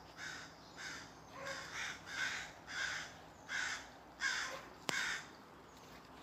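Crows cawing repeatedly, a run of about ten caws, with a single sharp click near the end.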